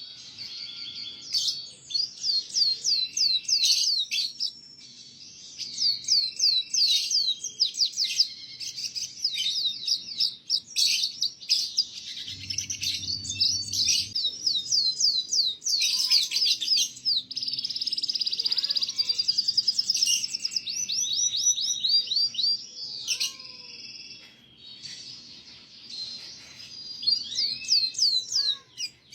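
Canary singing a long, continuous song of rapid high trills and fast repeated sweeping notes, with only brief breaks between phrases: tutor song for young canaries to learn from.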